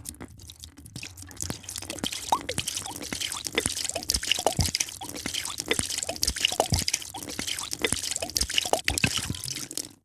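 A drink being poured into a glass: a continuous splashing hiss of the stream, with many quick plops and gurgles whose pitch rises.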